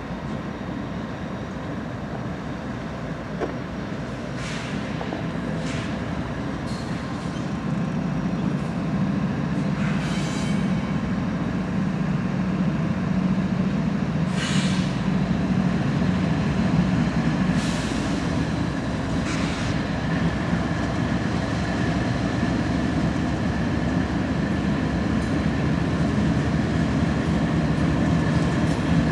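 A lash-up of several CSX diesel-electric locomotives hauling a train past with a steady, heavy rumble that grows louder about eight seconds in. Several short, sharp high-pitched sounds cut in over it.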